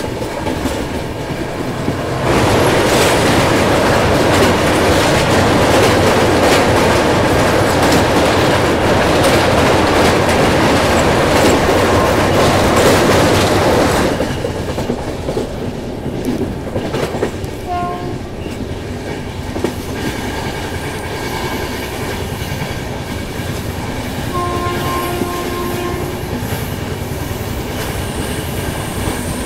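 A moving express train: steady rail noise with the clickety-clack of the wheels. From about two seconds in a louder rush of noise lasts roughly twelve seconds, then dies down. In the second half a train horn sounds in a few short blasts, the longest lasting about a second and a half.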